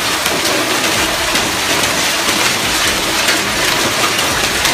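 Hail pelting down with rain: a steady, dense hiss dotted with many small sharp hits of hailstones striking surfaces.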